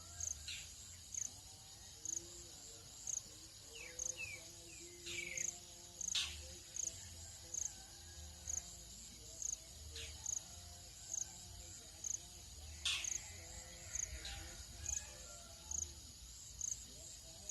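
Tropical dawn insect chorus: a steady high buzz with an even chirping pulse of about one and a half a second. Now and then birds give quick falling whistles and single sharp calls. Faint held low tones sit beneath.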